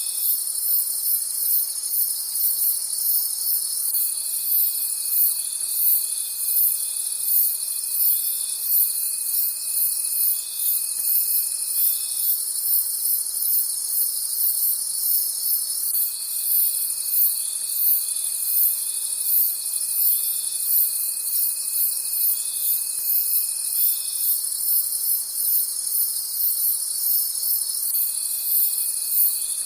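Crickets chirping at night: very high-pitched, rhythmic pulsing chirps over steady high insect trills, with a lower steady trill that starts and stops, running about eight seconds at a time.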